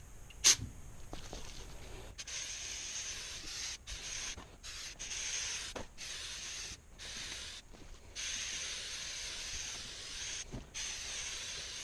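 Aerosol can of Citri-Strip paint remover spraying in a series of hissing bursts of a second or two each, with short breaks, after a single sharp click about half a second in.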